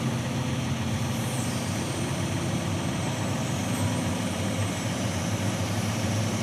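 Heavy diesel engine running steadily at low revs, with a faint high whine above it, as logs are loaded onto a logging truck.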